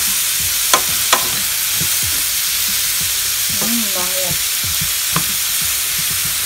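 Chopped leeks sizzling in a hot frying pan while a wooden spoon stirs them, with a few sharp knocks of the spoon against the pan: two about a second in, one more about five seconds in.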